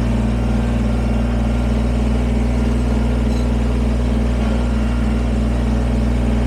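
Kubota BX23S sub-compact tractor's three-cylinder diesel engine running steadily at a constant speed.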